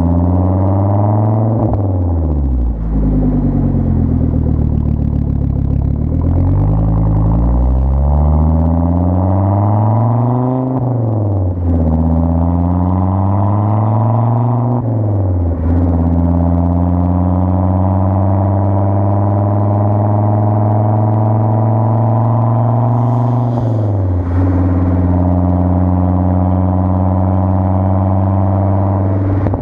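A 2004 Volvo S60R's turbocharged five-cylinder engine running through a custom 3-inch exhaust with two resonators. Its note rises and falls under changing throttle. Several times the pitch drops suddenly and picks up again, with long stretches in between of a steady drone that slowly climbs.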